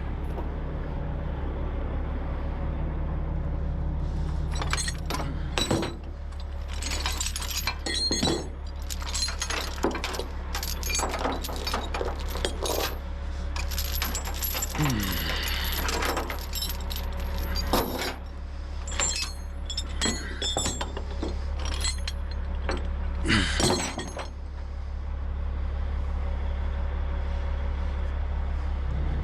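Steel tie-down chains clanking and rattling as they are handled and hooked, a run of sharp metallic clinks over a truck engine idling steadily.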